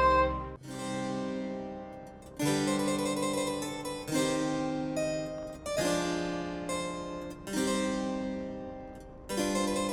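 Background music: a keyboard instrument with a harpsichord-like tone, chords struck about every second and a half and left to fade.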